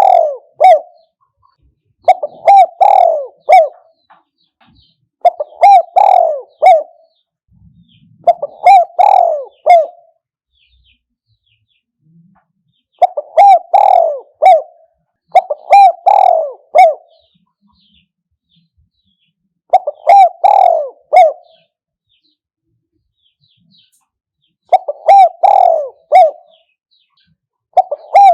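Spotted dove cooing: short phrases of several low coos, one phrase every few seconds. This is the decoy-bird call used to lure wild spotted doves.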